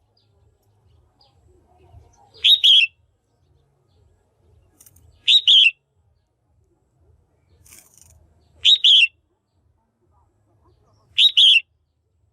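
Female red-whiskered bulbul calling: a short, loud double-note call repeated four times, about every three seconds.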